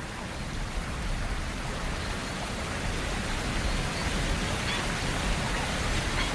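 Fast river water rushing over falls, a steady even rush of white water that slowly grows louder.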